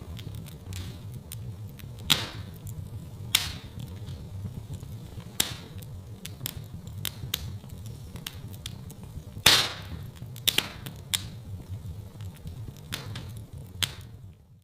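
Wood fire crackling in a fireplace: a steady low rumble of burning with irregular sharp pops and snaps. The loudest pop comes about nine and a half seconds in.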